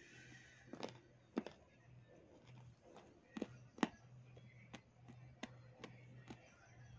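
Close-up crunching of butter grey clay being bitten and chewed, a string of sharp, crisp crunches at uneven intervals over a faint steady hum.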